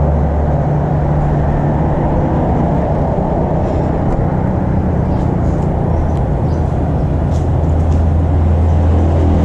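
Steady, loud low mechanical hum, like an engine running, with a few faint light clicks in the middle.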